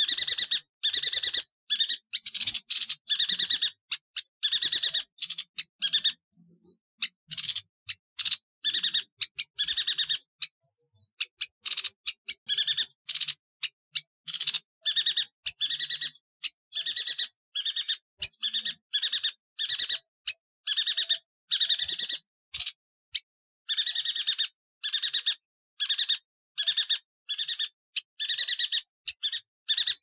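Yuhina calling: quick runs of short, sharp, high-pitched chirps repeated over and over, with a few brief pauses.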